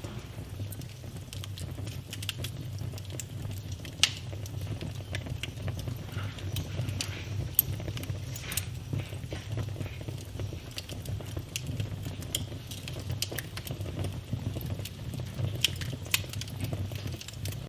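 Wood fire in a fireplace crackling: irregular sharp snaps and clicks over a steady low rumble from the fire, with a few louder pops now and then.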